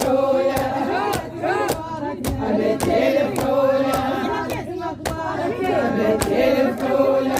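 A crowd of voices chanting an Iraqi arada war chant together, over a steady beat of about two sharp strikes a second.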